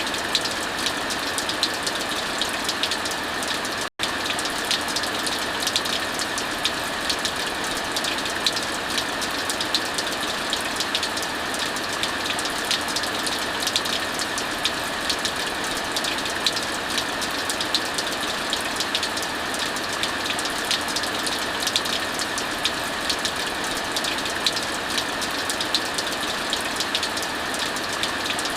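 Steady heavy rain hissing, mixed with a wood fire crackling in frequent sharp pops. The sound cuts out for a split second about four seconds in.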